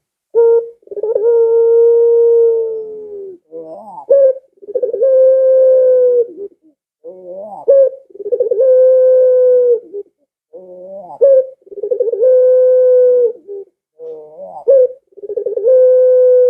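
Barbary dove (puter pelung) cooing repeatedly and loudly. Each call is a short rising note followed by a long, drawn-out held coo of about two seconds, about four or five times in a row.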